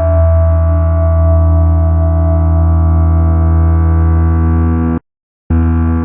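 Ambient electronic drone from analog synthesizers: a deep low tone sustained under a stack of steady, held higher tones, with no beat or melody. Near the end the sound cuts out completely for about half a second, then resumes.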